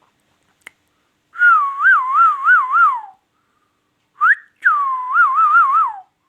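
Parrot whistling a tune in two wavering phrases, with a short rising whistle between them.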